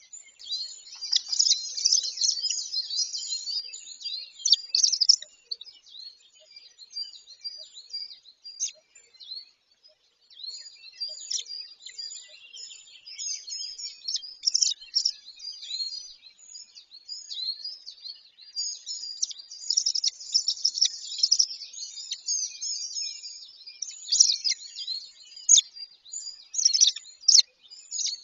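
High-pitched bird chirps and calls in dense bursts, with a couple of short lulls.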